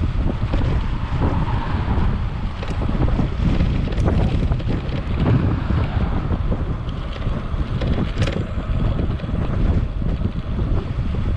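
Wind buffeting the bare microphone of a chest-mounted GoPro on a moving e-bike, with no wind muff fitted: a steady low rumble of wind noise with a few faint clicks.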